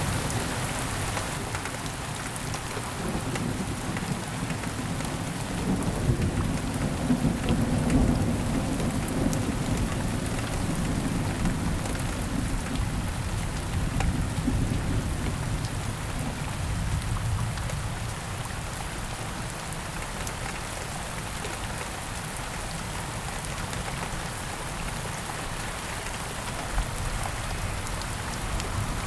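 Steady heavy rain, with low rolling thunder rumbling on and off through the first half, strongest about six to nine seconds in, then dying away to rain alone.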